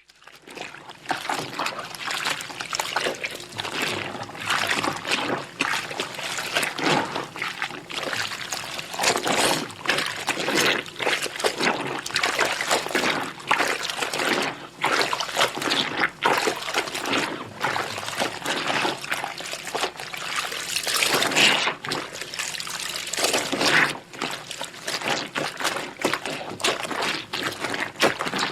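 Clothes being washed by hand in water: wet fabric squelched, rubbed and sloshed in a basin, with trickling and dripping water and frequent small splashes.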